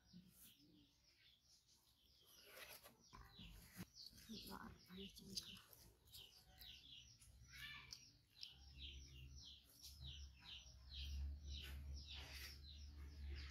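Faint small birds chirping over and over. A low rumble joins in about two-thirds of the way through.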